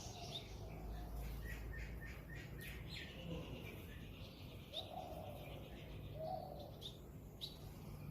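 Birds calling: a quick run of short chirps, then a held higher whistled note, with scattered sharp chirps and two lower gliding calls later on.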